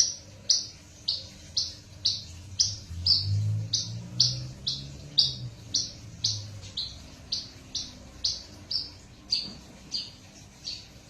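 Hybrid branjangan (bush lark, Java × parfa cross) repeating one short, high chirp at an even rhythm of about two notes a second.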